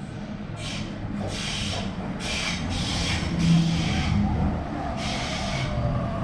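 Sydney Trains Waratah double-deck electric train pulling into the platform and braking: a low rumble of wheels on rail with several short bursts of hiss, and an electric whine that falls slowly in pitch as the train slows.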